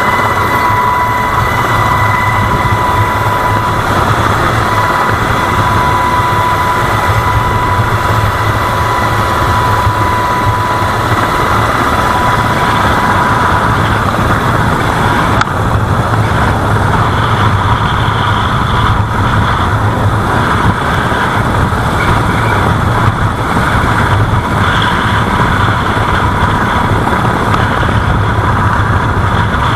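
Engine running steadily without a break, with a steady high whine over the low running noise.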